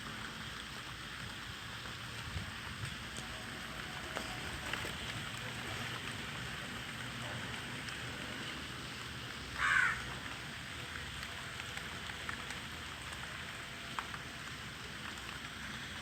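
Steady rain falling, with a single crow caw about ten seconds in and a few faint drip-like ticks.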